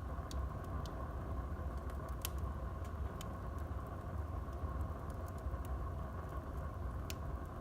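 Wood fire burning in a fireplace: a steady low rush from the flames with scattered sharp crackles and pops of the burning wood. Two louder pops stand out, one about two seconds in and one near the end.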